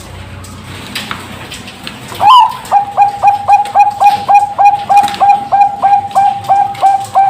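Zebra dove (perkutut bangkok) singing. After a quiet pause, a loud opening note about two seconds in leads into a fast, even run of short cooing notes at about four a second.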